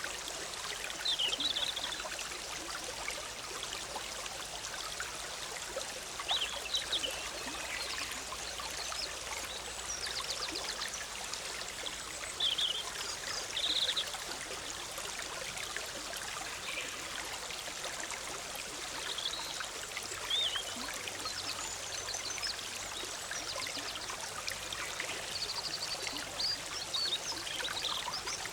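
Forest stream bubbling steadily over rocks, with songbirds chirping and giving short trills now and then over the water.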